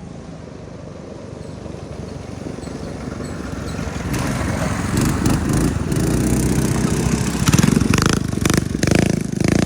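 Minibike engine running and growing steadily louder as it approaches, turning uneven with brief dips in the last few seconds.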